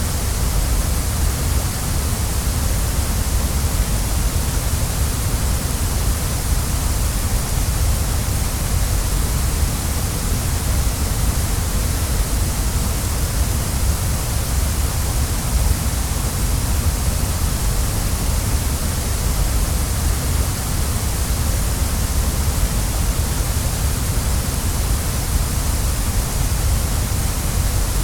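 Waterfall: falling water making a steady, even noise that never changes.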